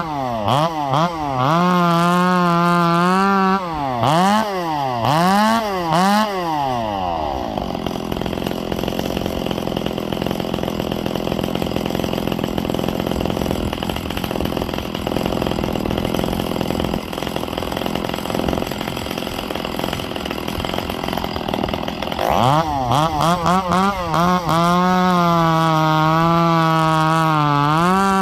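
Ported Echo CS-670 two-stroke chainsaw revved up and down several times, then pulled down into a long cut through wood for about fifteen seconds, where the engine note turns to a dense rasping noise, before revving freely again near the end.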